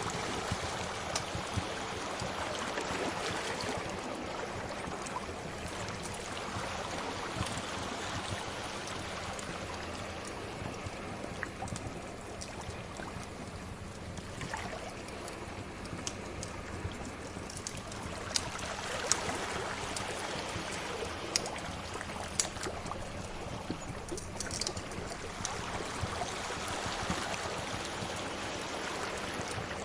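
Sea waves washing in and drawing back in slow swells, with the sharp pops and crackles of a fire, more of them in the second half.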